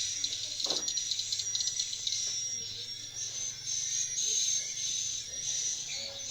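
Swiftlets twittering: a dense, high-pitched stream of rapid chirps and trills, with a low steady hum underneath.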